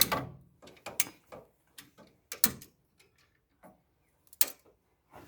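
Scattered clicks and knocks of tools and parts being handled, about eight over five seconds at uneven spacing, the loudest at the start and about halfway through.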